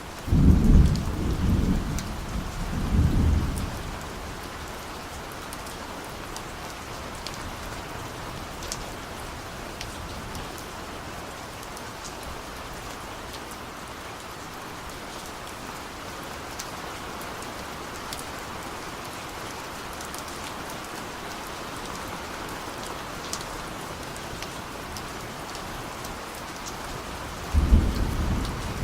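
Steady rain falling with scattered drips, and distant thunder rumbling twice in the first few seconds and again near the end.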